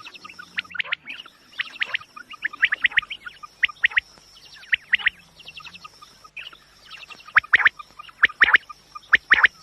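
Quail calling: quick clusters of sharp chirping notes, repeated about once a second, over a faint steady high tone.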